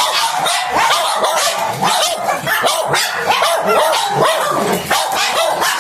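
Dogs barking and yipping in rapid, continuous short calls.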